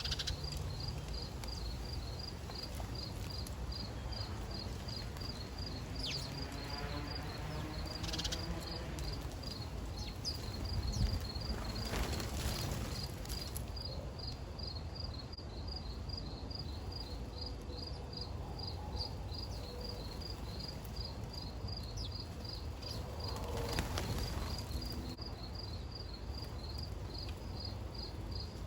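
An insect chirping steadily in an even rhythm, about three high chirps a second, over a low outdoor background hum, with a couple of short rushes of noise.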